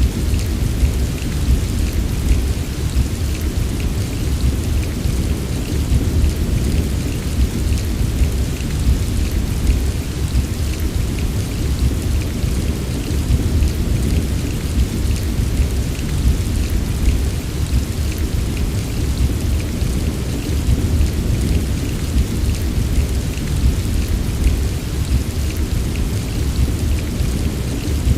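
Steady heavy rain with a continuous low rumble underneath and fine patter in the highs.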